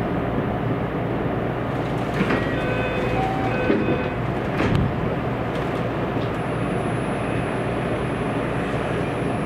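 Running noise of a JR West 227 series electric train heard inside the passenger car: a steady rumble of wheels on rail. There are a few sharp clicks about 2 and 5 seconds in, and a short set of ringing tones between them.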